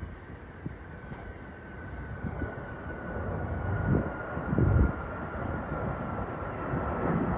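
Boeing 737 MAX 9's CFM LEAP-1B jet engines at takeoff thrust, a broad rumbling roar growing steadily louder, with a thin whine sliding slowly down in pitch. Gusts of wind buffet the microphone.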